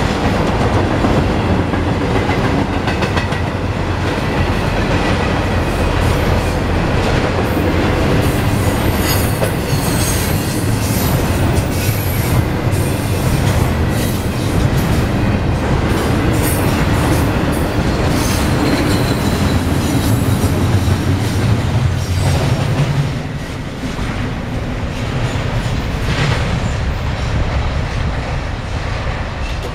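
Norfolk Southern intermodal freight train's cars rolling past close by, steel wheels rumbling and clattering over the rail joints, with some high-pitched wheel squeal. The sound drops off about three quarters of the way through as the end of the train goes by and it recedes.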